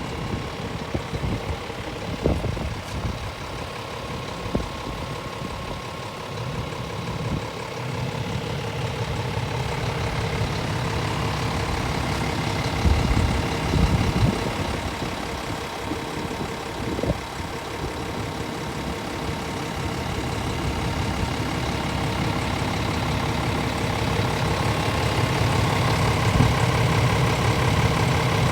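Scania S500 truck's 13-litre inline-six diesel engine idling steadily, growing gradually louder, with a few knocks and thumps near the middle.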